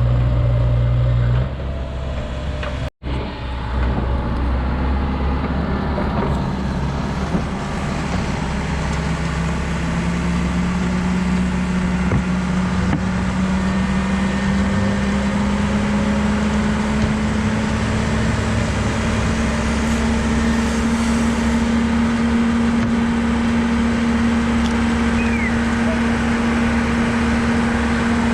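Heavy diesel machine engine running under load, its pitch climbing slowly and steadily over about twenty seconds. There is an abrupt break in the sound about a second and a half in, with a momentary dropout shortly after.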